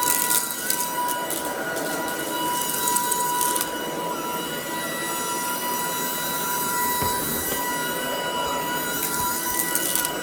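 Shark DuoClean cordless vacuum running with a steady high motor whine, broken by spells of crackling as it picks up crunchy debris: at the start, around three seconds in, and near the end.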